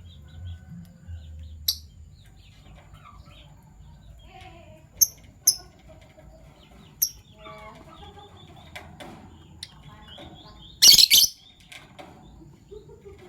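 Fischer's lovebirds chattering softly, with short sharp high chirps every second or two. About eleven seconds in comes one loud burst of noise lasting about half a second, which may be a flutter of wings.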